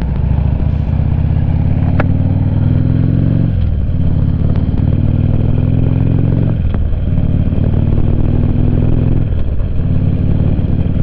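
Motorcycle engine accelerating hard through the gears: the pitch climbs, drops at each of three upshifts about three seconds apart, and climbs again.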